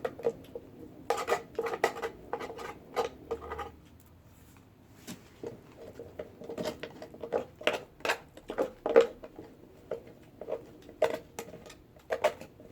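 Eating utensils clicking and tapping against dishes in irregular, quick contacts during a meal, in two busy stretches with a short lull in between.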